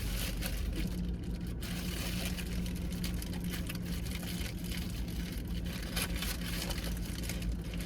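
Steady low rumble of a car heard from inside the cabin, with a constant hum and faint scattered rustles and clicks.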